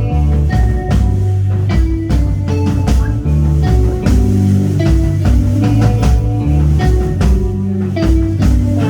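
Live rock band playing: electric guitar, bass and drum kit, with regular drum hits over sustained bass notes.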